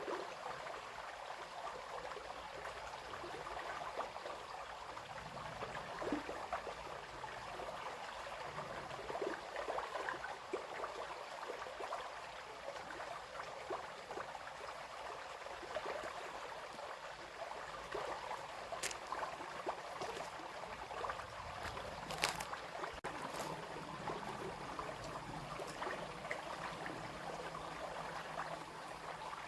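A small brook babbling and splashing steadily over stones, with a couple of brief sharp clicks past the middle.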